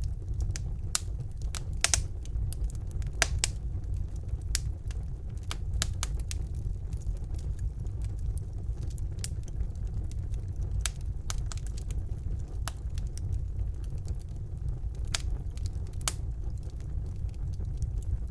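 Wood fire burning in a fireplace: a steady low rumble of the flames with sharp, irregular crackles and pops from the burning logs, a couple of louder pops a few seconds in.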